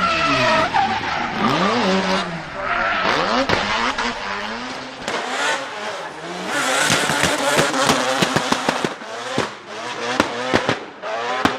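A drift car's engine revving hard up and down over a hiss of tyre squeal. From about halfway through, a rapid string of sharp exhaust pops and cracks takes over.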